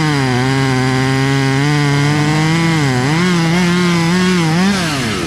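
Chainsaw running at high speed through a cut in a limb. Its pitch sags several times in the second half as the chain loads up in the wood, then drops sharply near the end as the throttle is let off.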